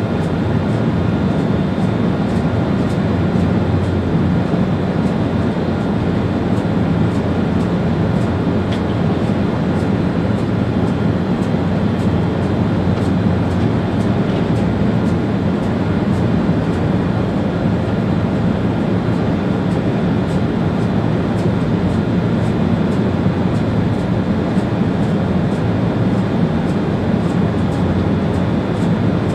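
Steady running noise of an ÖBB Railjet train heard inside the driver's cab: an even rumble of wheels on rail with a faint steady whine and scattered light ticks.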